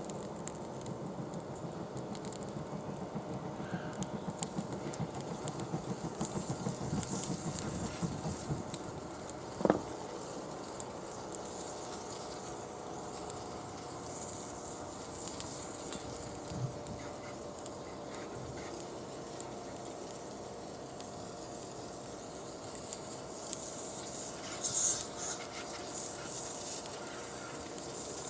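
Wood fire crackling in a small fire pit: scattered pops and snaps, with one sharp knock just under ten seconds in.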